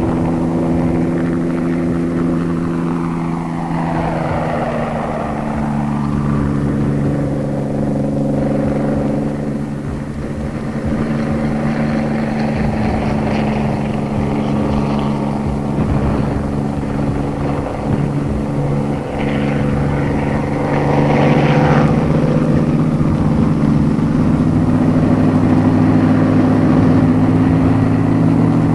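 H-19 helicopters running on the ground, a steady droning piston-engine note with rotor noise. The pitch shifts a little a few seconds in, and the sound grows louder about two-thirds of the way through.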